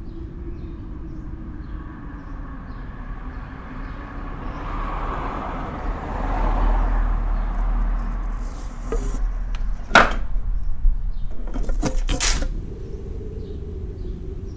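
Snowstorm wind blowing, with a low rumble, swelling in a gust midway. A sharp knock comes about ten seconds in, then a short clatter of knocks a couple of seconds later.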